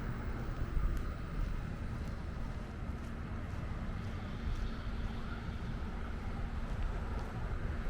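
Steady low rumble of a vehicle driving, with a faint steady hum running under it.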